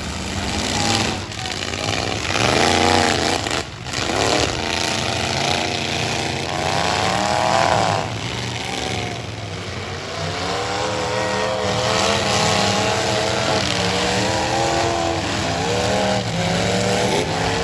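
Engines of full-size stock trucks revving hard in a demolition derby, their pitch repeatedly rising and falling as the drivers accelerate and back off.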